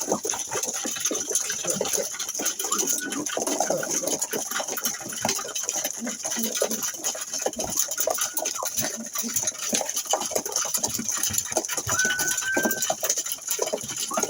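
Pigeons in a loft, with many quick clattering and fluttering sounds and one short, steady whistle near the end.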